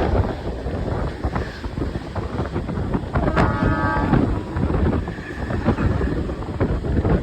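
Mumbai suburban local train running at speed, a steady rumble with irregular clatter, heavily buffeted by wind on the microphone. A brief high pitched tone sounds about three and a half seconds in.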